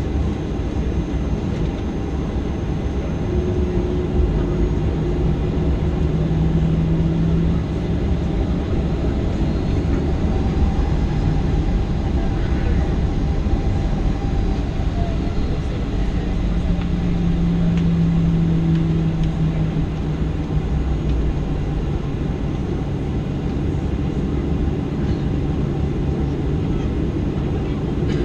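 Boeing 737-800 jet engines running steadily over a low rumble, with a low hum that swells twice.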